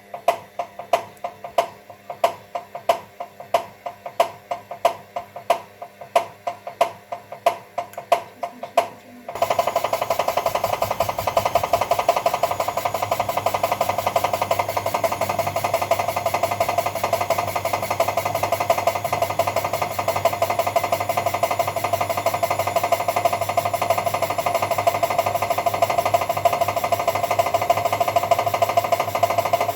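Engine with a regular knock, about two to three knocks a second, caused by the head of the pulley retaining bolt having worked loose. About nine seconds in, the sound changes abruptly to a louder, continuous rapid clatter.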